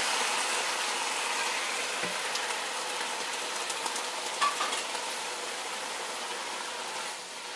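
Tofu and bok choy sizzling in a hot frying pan as the tofu goes in, the sizzle slowly easing. A silicone spatula stirring the pan gives a few light knocks.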